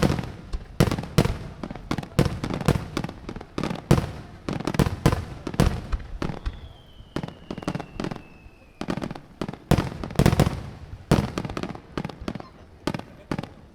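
Aerial firework shells bursting in rapid succession, deep booms and sharp cracks coming several to the second. A faint whistle slides slowly down in pitch from about six to nine seconds in.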